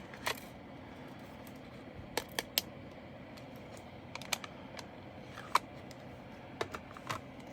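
Scattered light clicks and taps, about ten spread irregularly, from small plastic diamond painting drills and their packaging being handled and sorted.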